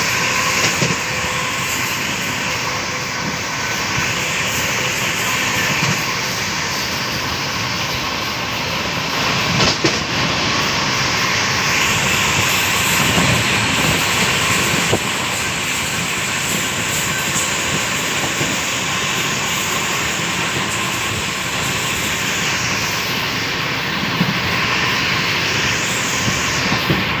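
Passenger train running at speed, heard from inside the coach: a steady rush of wind and wheel-on-rail noise, with an occasional sharp click.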